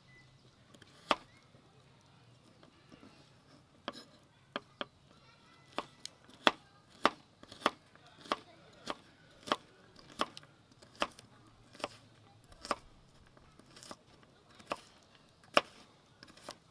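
Knife chopping food on a cutting board: sharp single knocks, scattered at first, then a steady run of strokes a little under a second apart, then a couple more near the end.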